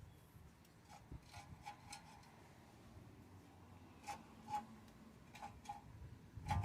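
Faint, scattered light metallic clicks and taps, irregularly spaced, from small brake parts and tools being handled during front brake pad work.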